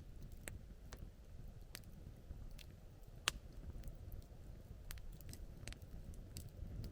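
Wood campfire crackling, with scattered sharp pops at uneven intervals. The loudest pop comes about three seconds in, over a low steady rumble.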